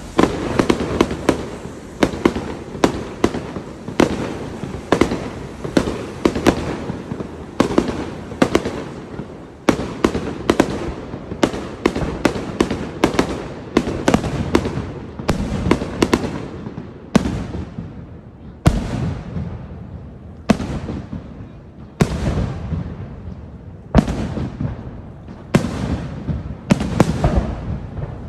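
Fireworks display: aerial shells bursting one after another, each bang trailing off. The bangs come thick and fast at first, then thin out to single bursts about every second and a half to two seconds.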